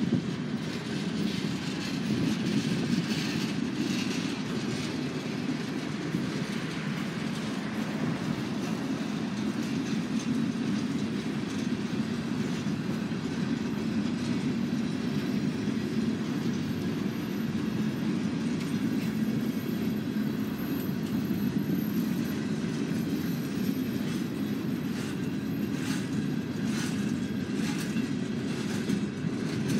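Freight cars of a long train rolling past: a steady rumble of steel wheels on the rails, with a quick run of wheel clicks near the end.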